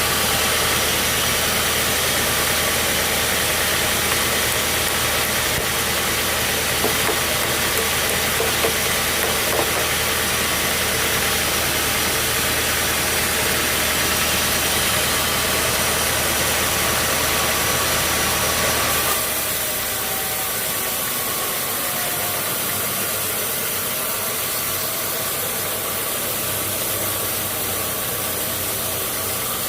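Sawmill machinery running steadily, a dense mechanical noise with a low hum. About two-thirds of the way through, the low hum cuts off suddenly and the noise carries on a little quieter.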